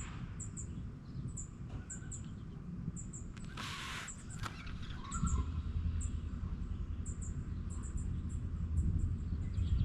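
Small birds chirping: short, high-pitched chips repeated irregularly, over a low rumble that grows louder about halfway through. A brief rustling noise comes a little before the middle.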